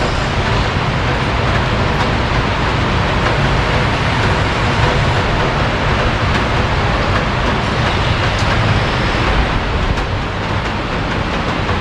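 Rain pouring steadily, an even dense hiss with a low rumble beneath it.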